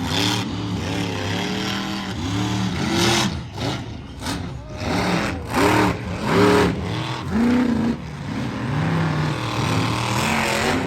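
An engine revving hard again and again, its pitch climbing and dropping with each stab of the throttle, over steady arena noise.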